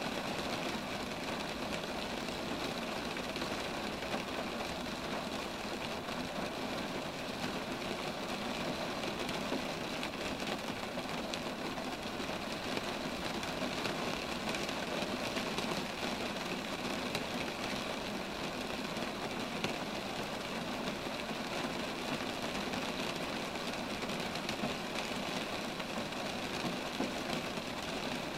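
Steady rain falling among roadside trees, an even hiss with no break.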